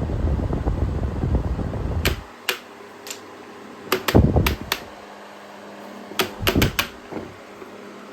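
Air from a Holmes Blizzard air circulator fan buffets the microphone with a loud low rumble, which stops abruptly with a click about two seconds in. After that come several sharp clicks and short knocks over the fan's faint steady hum.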